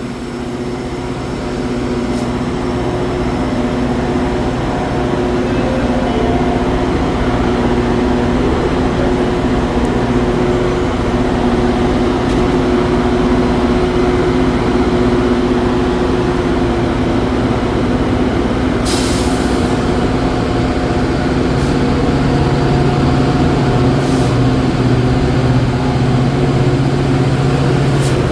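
Metra commuter train's diesel locomotive running at the station platform, a steady loud engine drone with several held tones that swells over the first couple of seconds. A lower engine tone comes in near the end, and there is one short sharp burst of noise about two-thirds of the way through.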